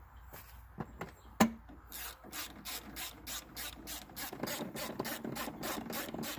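Hand ratchet wrench driving a bolt home: a sharp knock about 1.4 seconds in, then a fast, even rasping of ratchet strokes, about four to five a second.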